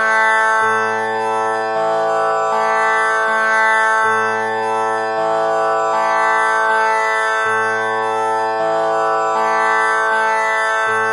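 Tanpura drone tuned to A (6 kattai): its strings plucked one after another in an unbroken, repeating cycle, the lowest string returning about every three and a half seconds while the rich overtones ring on continuously.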